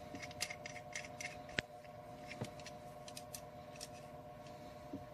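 Scattered light metallic clicks and taps of a tubing cutter and copper tubing being handled and set up for the next cut, with one sharp click about a second and a half in.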